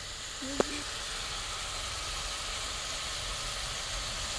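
Onions and tomatoes in oil sizzling steadily in an aluminium pot on a charcoal jiko, with one sharp click about half a second in.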